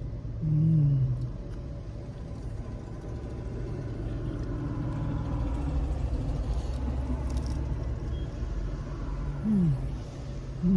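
Steady low rumble, a little stronger midway, with two short falling hums of a voice, about half a second in and near the end.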